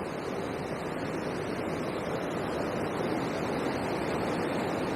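Steady rush of water pouring through a river weir.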